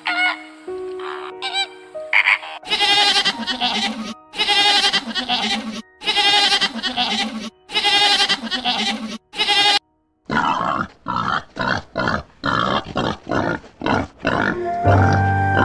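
Animal calls over background music: four long wavering cries of about a second and a half each, then a run of short, quick grunt-like calls. The music comes up clearly near the end.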